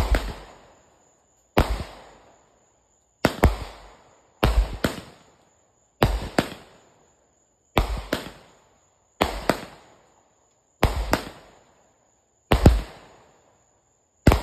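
Fireworks going off one after another: about ten sharp bangs, roughly one every second and a half, many doubled in quick succession. Each bang trails off in an echo.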